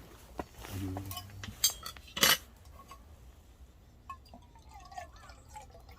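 Makgeolli being poured into a cup: a couple of sharp clinks, the loudest about two seconds in, then the trickle of the rice wine filling the cup.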